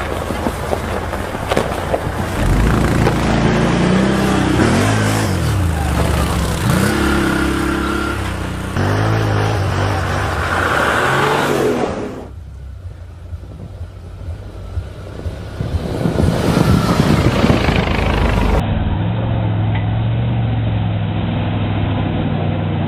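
Off-road vehicle engines revving and labouring, across several short clips spliced together; the engine pitch rises and falls repeatedly in the first third, and a steadier engine note runs near the end.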